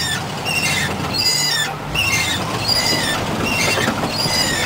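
Truck engine running at low revs while driving through deep snow, with a high-pitched squeak repeating about once a second.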